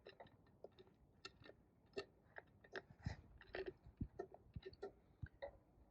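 Faint, irregular small clicks and clinks of metal parts being handled: a Torrington needle thrust bearing being set between oiled thrust washers.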